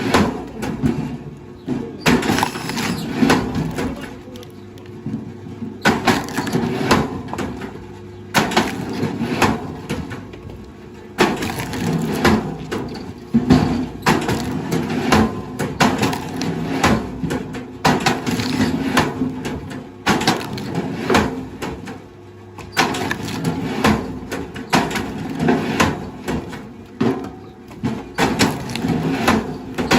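Wood cracking and splintering in dense bursts of snaps, a few seconds each with short lulls between, over a steady low hum.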